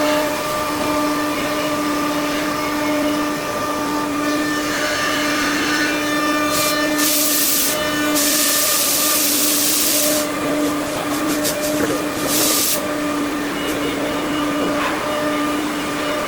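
5-axis CNC machine's spindle running at a steady high whine, broken by several bursts of hissing noise, the longest about eight seconds in.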